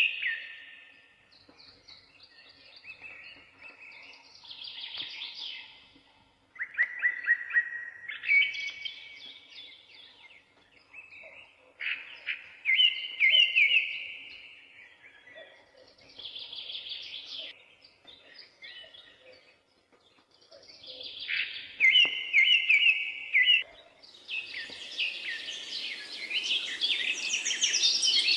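A songbird singing phrases of chirps and trills every few seconds, the same trilled phrase coming back more than once. A steady hiss of outdoor background noise comes in about three-quarters of the way through and grows louder.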